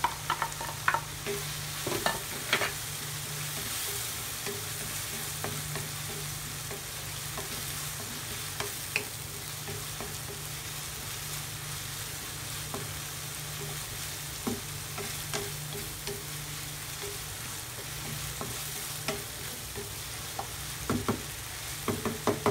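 Ground beef sizzling in a frying pan while a wooden spatula stirs it, clacking and scraping against the pan. The clacks come thickest in the first couple of seconds and again near the end, over a steady frying hiss.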